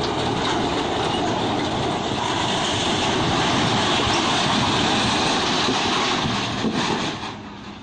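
Loud, steady rumbling rush of a large passing vehicle, fading away in the last second.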